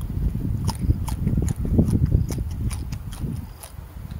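Close-up chewing of a mouthful of food, with wet mouth smacks and clicks several times a second over a low rumble of chewing.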